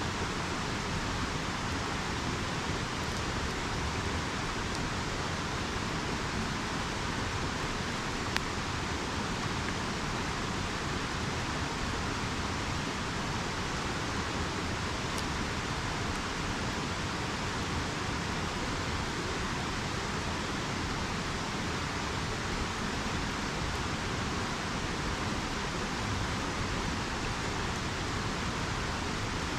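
Steady rushing of a river, with a couple of faint pops from a campfire, the clearest about eight seconds in.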